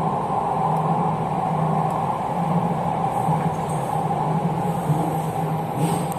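Jakarta MRT electric train running at speed, heard from inside the passenger car: a steady hum over an even rumble of the wheels on the track.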